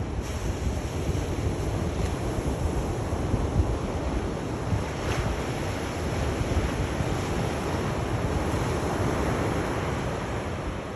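Sea waves breaking and washing ashore: a continuous rush of surf with a heavy low rumble, steady throughout.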